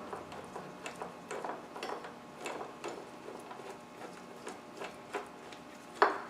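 Hand ratchet wrench clicking as it backs out 10 mm bolts holding a bracket on the engine, a few irregular ticks a second, with one louder metallic clack near the end.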